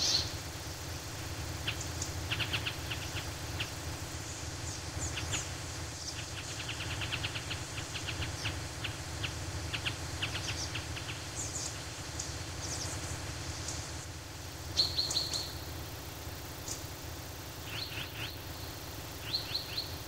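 Forest ambience of several small birds chirping: short high notes and quick trill-like series, over a steady low background rumble. The loudest cluster of calls comes about three-quarters of the way through.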